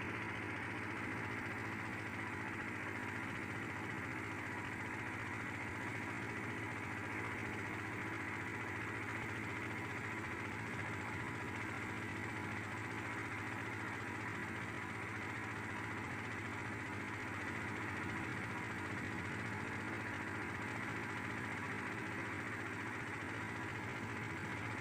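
Boat engine running steadily at constant speed, a continuous low drone.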